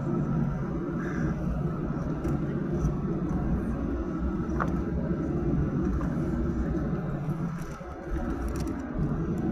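Steady low rumble from inside a moving vehicle, with a few faint clicks and ticks.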